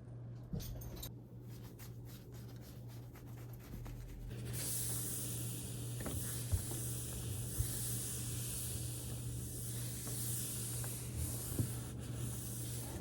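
A few light rubs and clicks of handling, then from about four seconds in a steady hiss with occasional small knocks, which stops just before the end.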